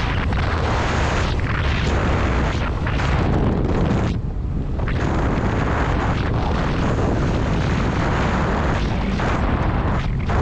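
Heavy wind blast on the microphone of a motorcycle on the move, a dense rumbling rush with the bike's running underneath. The rush eases briefly about four seconds in.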